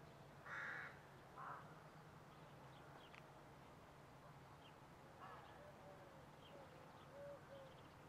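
Two short, harsh bird calls about a second apart near the start, then faint scattered chirps, over a near-silent background with a faint steady low hum.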